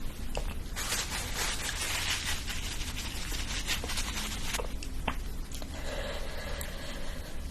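Close-miked eating sounds: crunchy food being bitten and chewed, a dense crackle from about one second in until nearly five seconds, then quieter chewing.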